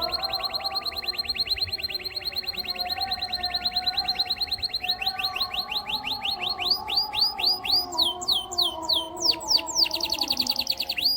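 Domestic canary singing a long unbroken song of rapid trills: fast repeated down-sweeping notes for about five seconds, then slower, longer swooping notes, then a quick trill again near the end, where it breaks off abruptly.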